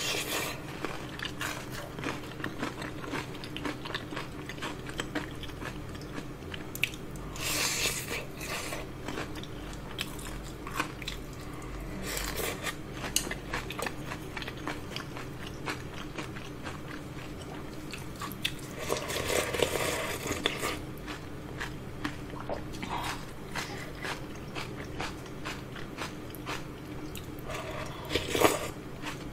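Close-miked biting and chewing of crispy battered fried shrimp: a dense run of small crunches, with a few louder bursts along the way and a sharp one near the end.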